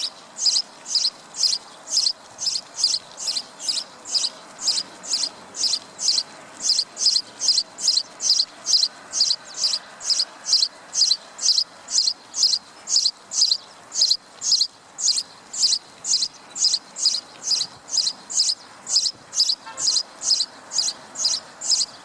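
Sparrow chirping: a long, even run of short, high single chirps, about two a second.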